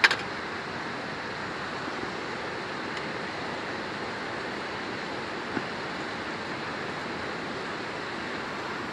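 Steady rushing noise with a sharp click right at the start and a faint tick about five and a half seconds in.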